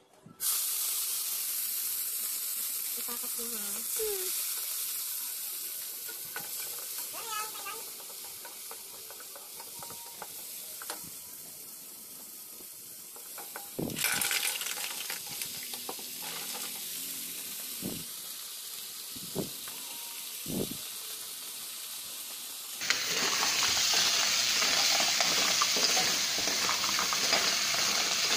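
Food frying in a pan on a gas stove, a steady sizzle with a wooden spatula stirring and knocking against the pan. The sizzle flares up about halfway through as mussels are tipped into the hot pan, and grows louder again near the end.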